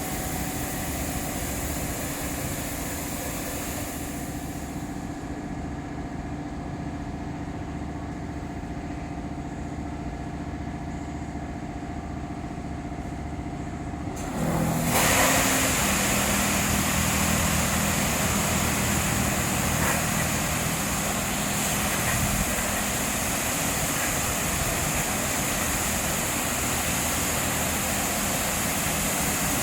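Automatic touchless car wash machinery running: a steady motor-and-pump hum with several steady tones. About halfway through, a louder steady hiss sets in over a lower hum and holds.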